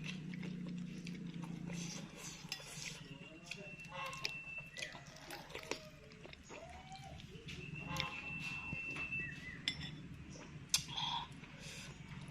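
Eating sounds from a bowl of bakso meatball soup: a metal spoon or fork clinking against the bowl many times, irregularly, with mouth sounds of chewing and slurping, over a steady low hum.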